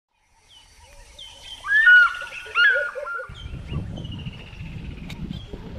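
Wild birds calling and singing, fading in from silence, with several overlapping whistled phrases that are loudest about two seconds in. A little after three seconds a low rumbling noise starts suddenly under the birdsong.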